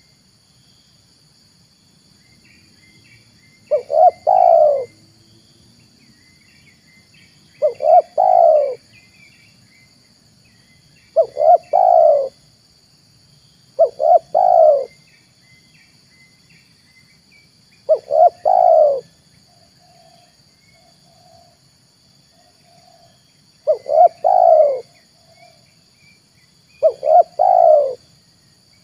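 Spotted dove (tekukur) cooing: seven phrases, each a couple of short notes running into a longer coo, repeated every three to four seconds. A lure call for drawing in wild doves, with small birds chirping faintly and a steady high insect buzz behind it.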